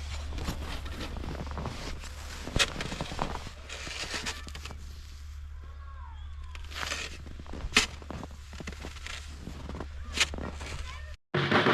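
Footsteps crunching irregularly through crusted, icy snow, over a steady low wind rumble on the microphone. Near the end the sound cuts off and music begins.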